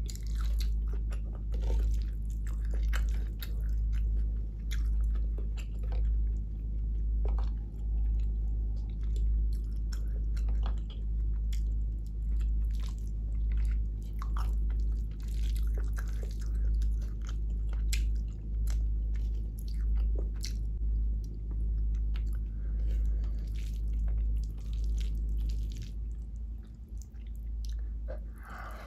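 Close-miked chewing of hand-fed mouthfuls of vegetable biryani and cauliflower, with wet mouth clicks and small crunches, in a steady rhythm of about one chew a second.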